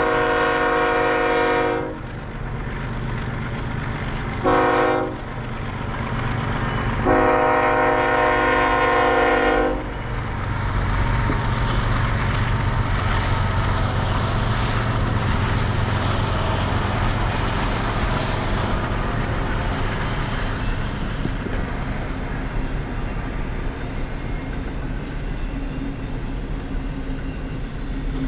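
Locomotive air horn sounding three chord blasts, long, short, long, then the train rumbling past with steady wheel and rail noise that eases slightly near the end.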